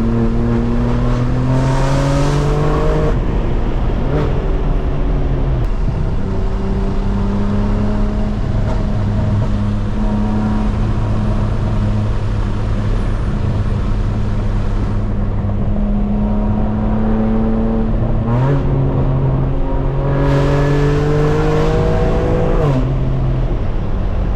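Straight-piped BMW M4 Competition's twin-turbo inline-six pulling hard, its pitch climbing and then dropping at upshifts about three and six seconds in. It holds a steady cruise for about twelve seconds, then climbs through another hard pull that falls away near the end.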